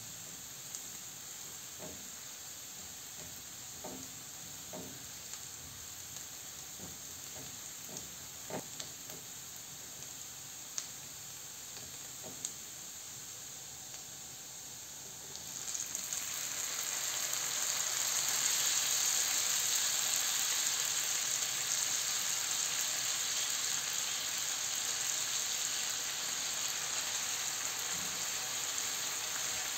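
Chopped onion and garlic sizzling gently in oil in a frying pan, with a few small clicks. About halfway through, chopped tomatoes go into the hot pan and the sizzle jumps much louder and stays strong while they are stirred.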